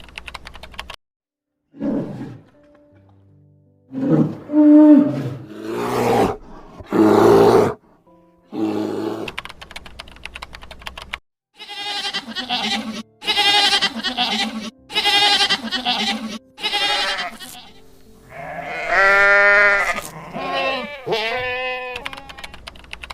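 A string of separate animal calls cut one after another, many of them bleats, with a run of about six evenly spaced calls in the middle.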